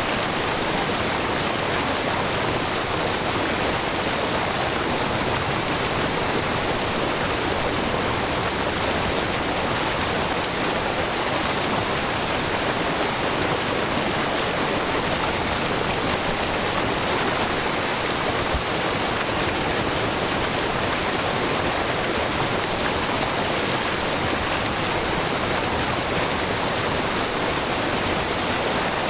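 Wide, low waterfall of spring water pouring down a rock face into a pool, giving a steady rushing of falling water.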